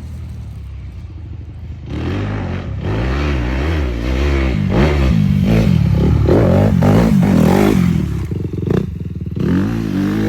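Yamaha YFZ450R quad's single-cylinder four-stroke engine through a Rossier R5 aftermarket exhaust. It runs low for about the first two seconds, then revs up and down repeatedly with the throttle, drops off briefly near the end and picks up again.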